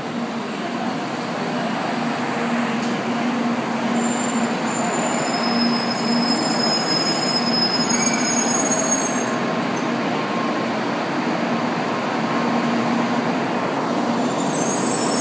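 N700-series Shinkansen train pulling slowly into a station platform: a steady rumble of wheels on rail and running gear, with a constant humming tone.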